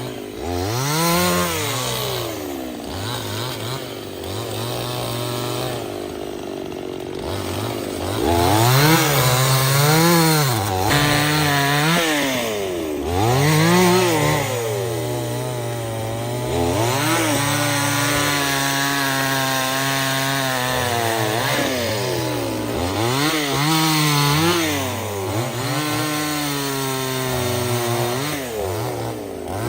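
Two-stroke chainsaw running and cutting wood. The engine note rises and falls again and again as the throttle is opened and eased, over a steady running tone.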